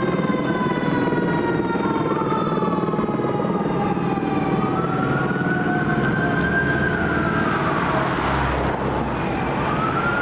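Sirens of a fire engine and a rescue ambulance wailing as they respond. One siren slides slowly down in pitch over the first few seconds, while a second rises about halfway through, falls, and rises again near the end, all over a steady low engine rumble.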